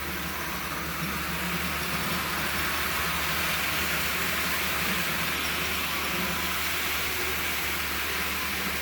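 Thomas the Tank Engine model train's small motor running along the track, a steady whirring over the rails that grows louder toward the middle as the engine comes closest and then eases off as it moves away.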